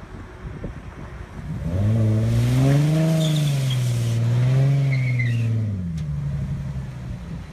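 Ford Mustang's engine revving as the car accelerates past, the note climbing and dipping twice and then falling away as it goes by.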